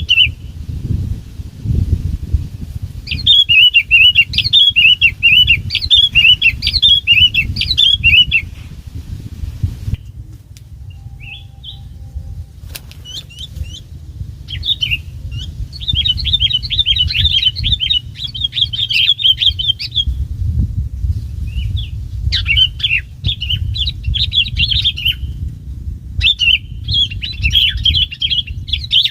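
Sooty-headed bulbul singing in several bursts of quick, chirpy warbling phrases with pauses between them, over a steady low rumble.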